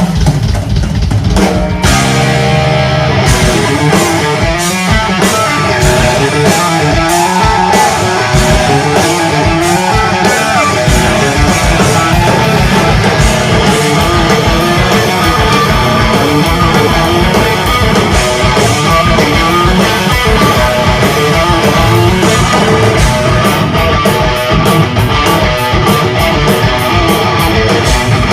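Heavy metal band playing live and loud: a distorted electric guitar plays a fast lead solo with bends, over driving drums and bass. The drumming gets faster near the end.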